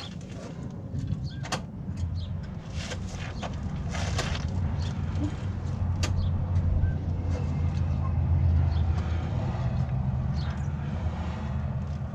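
Side-by-side utility vehicle engine running steadily, getting louder about two seconds in, with scattered clicks and clunks while the newly fitted parking brake is tested.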